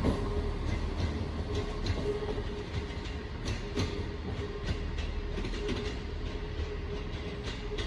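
Class 158 diesel multiple unit pulling out, its diesel engine running under power with a steady low rumble and a held tone. Its wheels click again and again over rail joints and points.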